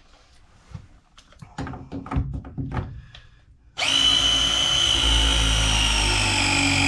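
A few clicks and knocks of handling, then about four seconds in a pipe press tool starts with a sudden steady motor whine as it crimps a press fitting onto a valve.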